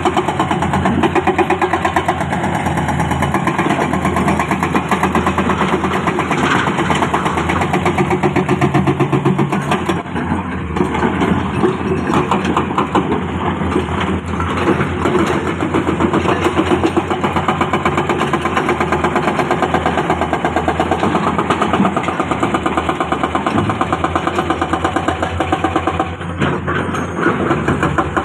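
Heavy diesel earthmoving machinery running steadily during digging and truck loading, with a fast even engine pulse; twice the sound briefly drops a little in level.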